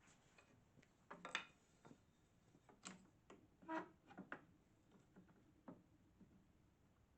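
Faint scattered clicks and light knocks, about a dozen, the loudest about a second and a half in and again nearly four seconds in, against near silence.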